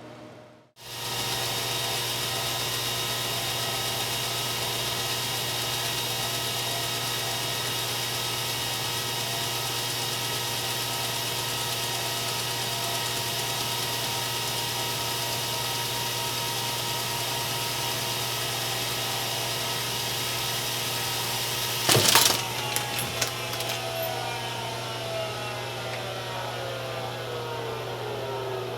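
Film projector starting abruptly after a moment's silence, then running steadily with a mechanical whir and a low hum. About 22 seconds in comes a loud clatter, and after it the tones fall steadily in pitch as the mechanism winds down.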